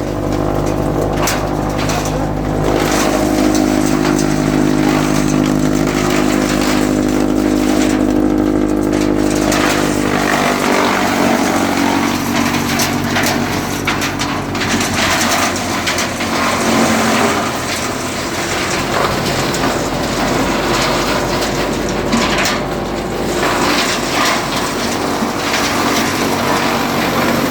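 Tractor-driven wood chipper running: a steady engine and machine hum, its pitch shifting about ten seconds in, with scattered short knocks.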